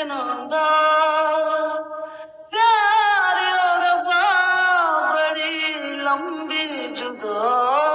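A voice singing long held notes, with a wavering vibrato, in phrases that break off briefly about half a second in and again about two and a half seconds in.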